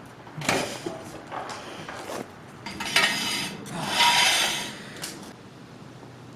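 Metal tools and parts clinking and scraping as they are handled, in a run of irregular bursts, the longest and loudest near the middle, ending with a single sharp click.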